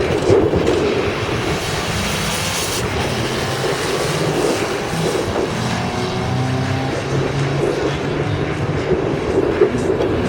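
Drag-racing car engines running hard, a steady mechanical rush with an engine note sliding in pitch around the middle.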